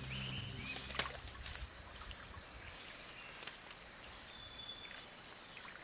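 Faint wetland ambience: a steady high insect trill over a soft trickle of water, with a couple of small clicks about one and three and a half seconds in. A low sustained chord fades out in the first second.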